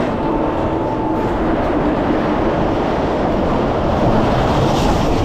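Roller coaster train running on its track: a steady rumble with a faint whine over it.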